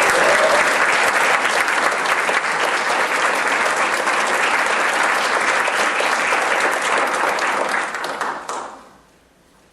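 Congregation applauding steadily, then dying away about eight and a half seconds in.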